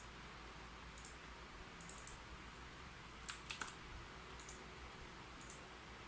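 Computer keyboard typing in short, sparse runs of key clicks with pauses between them, the loudest run about three and a half seconds in, over a faint steady hiss.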